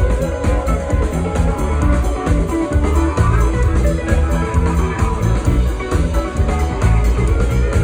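Live rock band playing: electric guitar over bass and drum kit, at loud concert volume.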